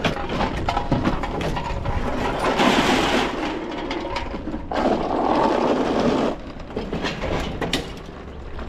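Scrap metal being shifted and dragged around on a loaded trailer: irregular rattling clatter and knocks, with a longer scraping rush about three seconds in and again around five seconds in.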